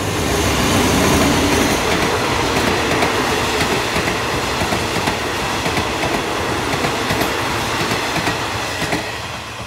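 Alsthom diesel-electric locomotive 4225 passing close with its engine running, then a train of passenger coaches rolling by, wheels clicking over the rail joints. The noise fades near the end as the train moves away.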